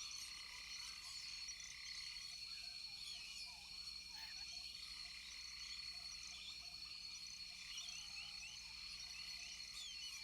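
Dense chorus of rainforest frogs: many short overlapping chirping calls over a steady high-pitched trill, with a row of short, lower, evenly repeated notes partway through.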